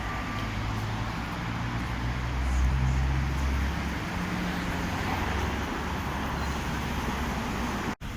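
Street traffic: a motor vehicle's engine passing close, loudest about three seconds in, over a steady hiss of road noise. The sound cuts out for an instant near the end.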